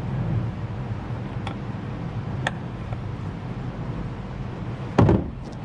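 Oil drain pan being handled while it is wiped out: a couple of faint ticks, then one loud knock about five seconds in, over a steady low hum.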